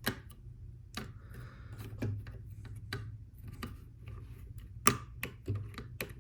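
Lego Technic plastic pieces clicking and knocking as they are handled and pressed together: a scatter of sharp separate clicks, roughly one a second, two close together near the end.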